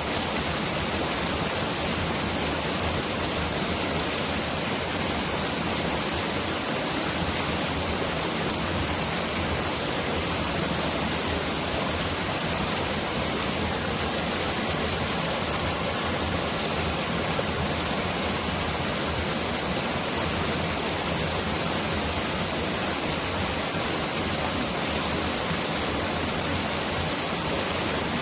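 Mountain valley stream rushing: a steady, dense wash of water noise that sounds like pouring rain.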